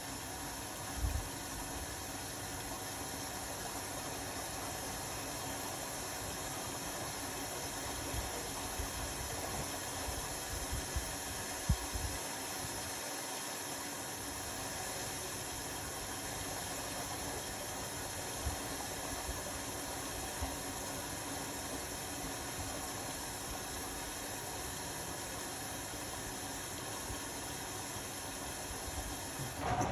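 Indesit Innex BWE 91496X washing machine running steadily: an even mechanical noise with a few brief low knocks about a second in and again around the middle.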